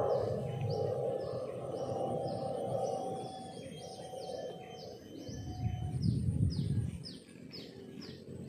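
A bird calling over and over, a short falling chirp repeated about twice a second, with a faint thin high buzz behind it and low outdoor background noise.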